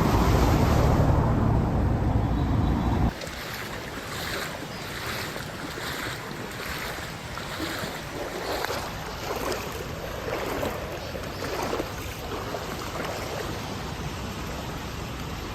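A loud low rumble for about three seconds that cuts off suddenly, followed by floodwater rushing and swishing on a flooded street, in repeated swells.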